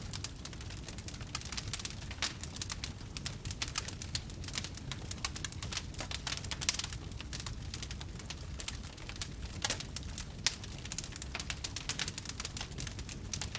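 Wood campfire crackling, with many small sharp pops coming irregularly over a steady low rumble of the flames.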